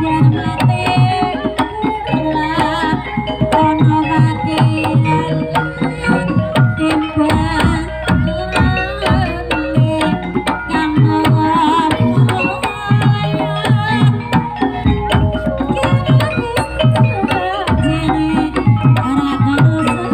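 Javanese gamelan music accompanying a barongan dance: hand-played kendang drums beat a busy, pitch-bending pattern under ringing metallophone tones, without a break.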